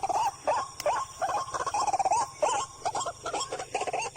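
Captured white-breasted waterhen (ruak-ruak) giving a rapid run of short, wavering squawking calls, several a second, as it is held.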